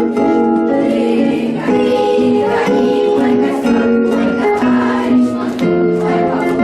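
Music: a group of voices singing a song together, accompanied by guitar.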